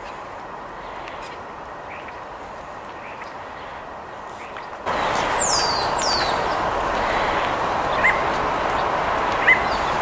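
Outdoor background hiss that grows louder about halfway through, with bird calls over it: two quick high whistles falling in pitch just after the rise, and two short chirps near the end.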